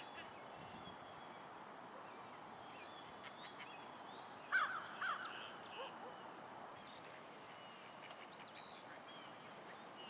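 Birds calling outdoors: two short, louder calls about halfway through, with scattered faint chirps from small birds over a steady background hiss.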